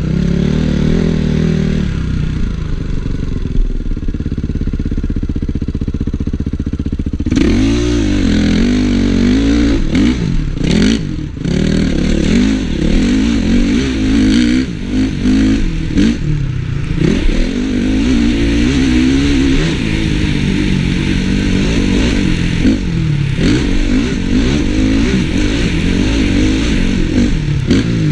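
Honda CRF450 motocross bike's single-cylinder four-stroke engine, heard from a helmet camera while riding. It runs low and fairly even for about the first seven seconds, then revs up and down again and again, with brief throttle-offs about eleven and sixteen seconds in.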